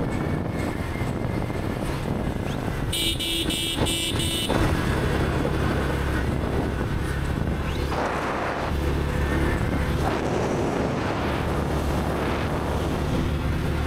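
Motorcycle engine running steadily while riding on the road, with a vehicle horn honked about four times in quick succession about three seconds in.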